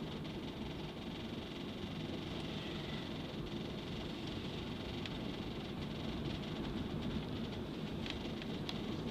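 A vehicle driving along a road: steady engine and tyre noise, with a few short sharp ticks near the end.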